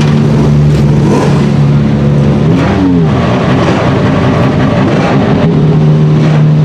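Sauber Mercedes C9's turbocharged 5.0 L V8 running loudly at fairly steady revs. About two and a half seconds in, the pitch dips and climbs back, and the engine note is rougher for a few seconds before settling to a steady pitch again near the end.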